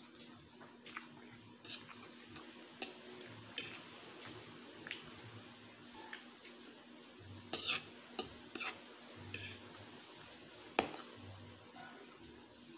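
A fork clinking and scraping against a plate while noodles are eaten, mixed with wet chewing and mouth smacks. About a dozen sharp, irregular clicks, loudest in a cluster near the middle.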